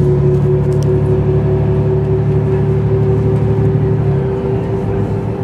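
Mercedes-Benz O405 N² city bus's diesel engine and Voith automatic gearbox heard from inside, running under steady load with a steady deep drone and a higher whine. About four seconds in, the deep drone drops away and the sound eases slightly, as when the driver comes off the throttle or the gearbox shifts.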